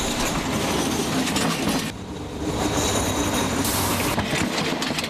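A train passing at close range, its cars rumbling along the rails. A brief high hiss comes about three and a half seconds in.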